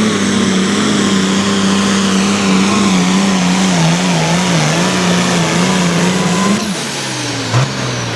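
The turbocharged 466-cubic-inch diesel of a Light Pro Stock pulling tractor runs hard under load, its pitch wavering as it drags the sled, with a high turbo whine above it. About six and a half seconds in the throttle is cut: the engine drops to a low idle, the turbo whine winds down, and there is a brief knock near the end.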